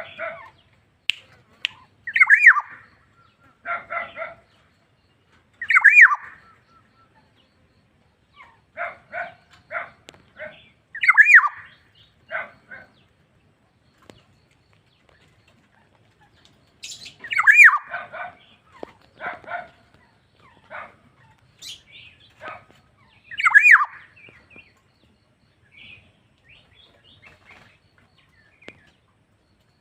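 Black-naped oriole calling repeatedly: loud notes that sweep sharply downward every few seconds, with shorter, harsher note clusters between them and brief pauses.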